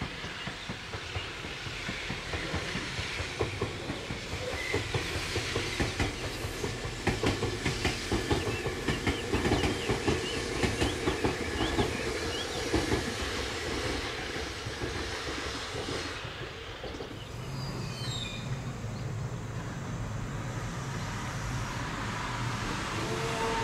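Train running on rails, its wheels clicking over rail joints in quick rhythmic runs, loudest through the middle, with a faint high wheel squeal now and then.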